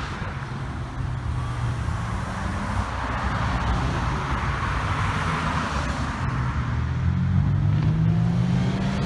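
Car engines running at low revs as cars drive off slowly. From about six seconds in, one engine's pitch rises steadily as it accelerates.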